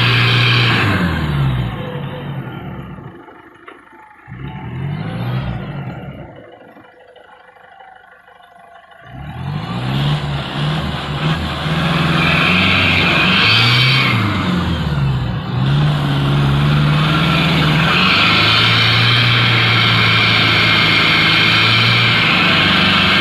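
Pickup truck engine revving hard on a steep, slippery climb. The revs drop away to a low level about a second in and stay low for several seconds. They then rise and fall again repeatedly and hold high near the end.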